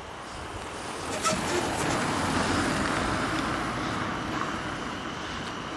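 A train on the railway line running past: its rumble swells about a second in, then slowly eases off, as it sounds to be slowing to pull up at the station.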